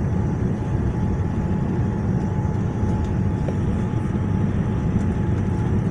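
Steady cabin noise inside a Boeing 787 descending on approach: an even low rumble of the engines and airflow, with a thin steady tone above it.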